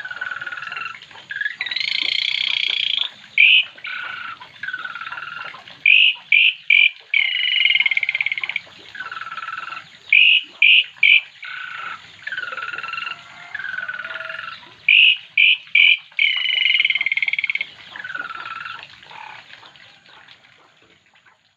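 Oriental magpie-robin (kacer) singing loudly, repeating a sequence of buzzy phrases: long high notes, lower drawn-out notes and quick runs of three short notes. The song fades out over the last few seconds.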